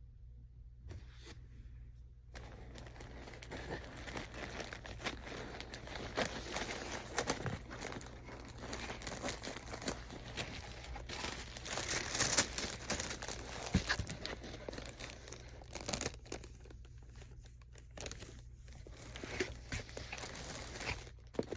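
Packaging being unwrapped by hand: crinkling and tearing of wrapping, starting about two seconds in and going on with a short pause near the end.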